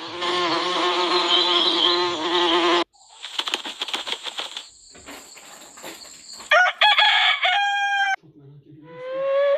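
A string of animal-like sounds, cut abruptly one into the next. First comes a dense pitched buzzing sound for about three seconds, then a run of clicks and rattles, then a few short pitched calls, and a rising call at the end.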